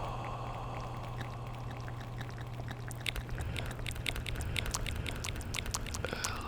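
Wet mouth sounds close to a very sensitive microphone: from about halfway in, quick irregular clicks and smacks of tongue and lips over a steady hiss and low hum.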